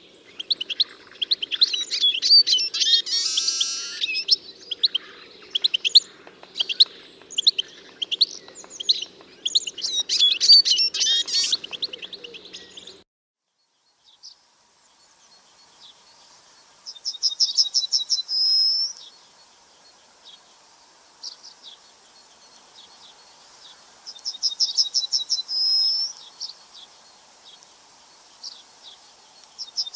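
Wild songbirds: dense chirping and song for about the first thirteen seconds, over a low steady hum. After a brief silence, a single high trilled phrase repeats about every seven seconds, with a few scattered chirps in between.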